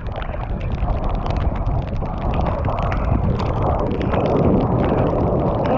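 Chainless mountain bike coasting downhill through deep mud: tyres squelching through the mush and the bike rattling and knocking over the rough track, with wind and rain noise on the microphone.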